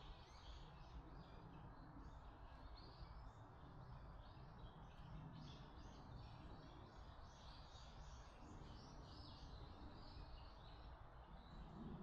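Faint birdsong: many short chirping calls, one after another, over a steady low background rumble.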